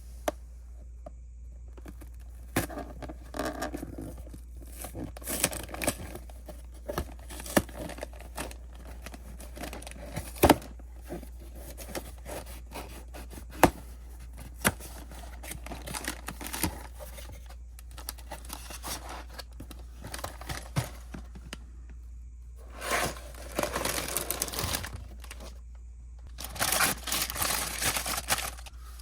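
Lego set packaging being handled: crinkling and tearing of plastic and cardboard, with scattered sharp clicks and two longer bursts of rustling near the end.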